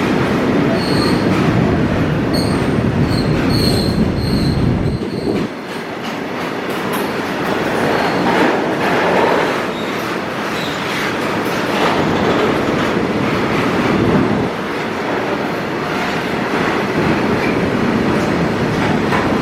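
A passing train's wheels running on the rails with a steady rumble and short high wheel squeals in the first few seconds. The deepest part of the rumble falls away about five seconds in.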